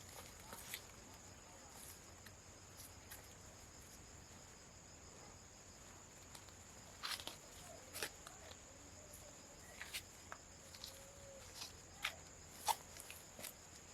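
Faint steady high-pitched insect chorus, with scattered light clicks and knocks over the second half.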